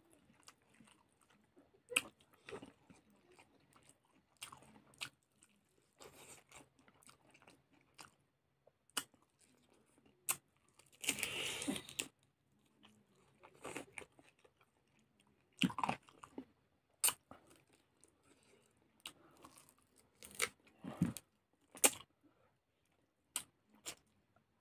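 Close-up eating sounds of a man eating a chicken leg and rice with his hand: chewing, biting and mouth smacks as scattered clicks, with a longer, louder noisy bite about eleven seconds in.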